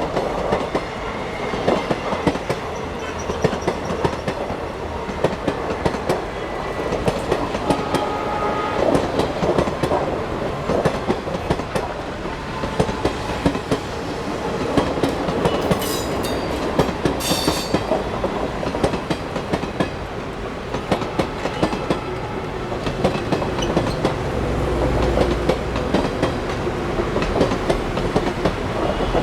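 Passenger train coaches rolling past at speed, a continuous rumble with the wheels clattering rapidly over the rail joints. Two brief high-pitched squeals come about halfway through.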